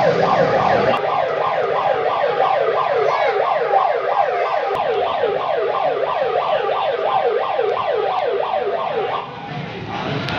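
Electronic siren sounding a fast yelp: quick falling wails repeated about four times a second, cutting out shortly before the end.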